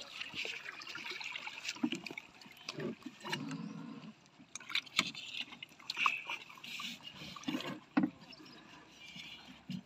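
A rope being pulled and knotted to moor a small wooden rowing boat: irregular knocks, clicks and rustles, with a few dull thuds.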